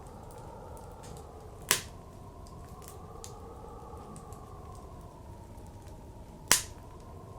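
Wood fire crackling, with two sharp loud pops about two seconds in and again near the end, over the steady low howl of blizzard wind that slowly swells and eases.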